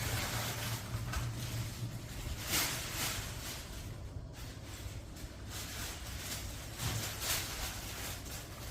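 10-inch electric exhaust fan running: a steady low motor hum under an even rush of air, swelling louder a few times.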